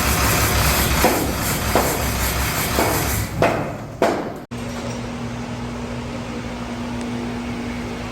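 2007 International MaxxForce DT 7.6 L diesel engine running, with several short, sharp louder bursts. About four and a half seconds in the sound cuts off abruptly, and a steady hum with one low steady tone follows.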